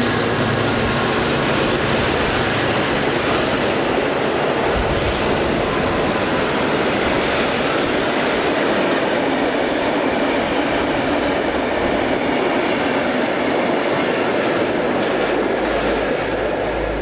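A diesel-hauled passenger train passing close by. A low diesel engine hum fades in the first few seconds, then a steady, loud rolling noise of the carriages' wheels on the rails.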